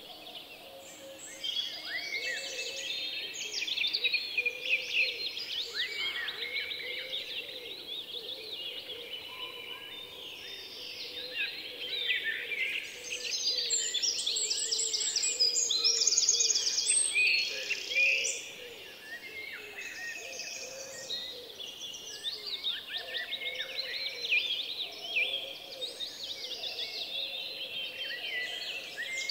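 Birds chirping and calling continuously, many short high calls overlapping over a steady background hiss. They grow louder in the middle, with a quick run of rapidly repeated notes.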